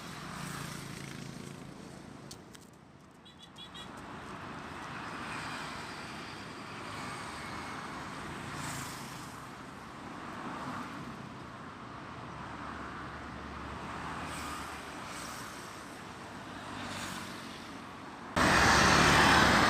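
Road traffic going by: a steady, fairly faint hum of vehicle engines and tyres. Near the end the sound jumps suddenly to a much louder rush.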